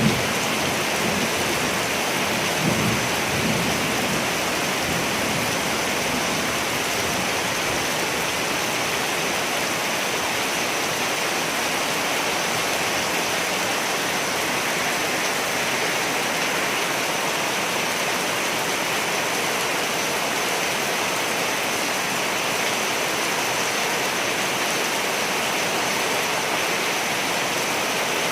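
Steady rain, with low thunder rumbling in the first few seconds, then fading out and leaving only the rain.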